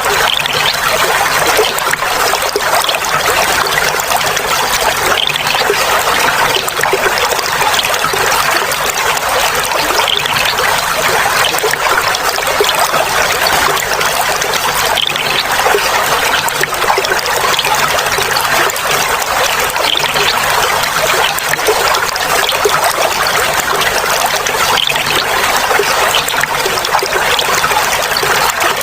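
Clear water trickling and babbling steadily over stones, a continuous burbling splash with no pauses.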